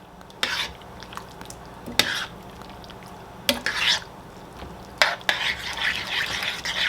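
A spoon stirring a pot of chili, scraping against the pot in separate strokes about a second and a half apart, then more steadily near the end.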